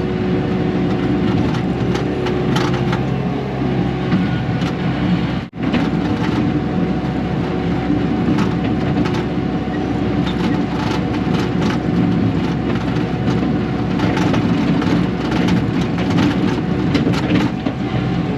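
Heavy diesel equipment engine running steadily under load, with repeated cracking and crunching as brush and rock are broken up. The sound drops out for an instant about five seconds in.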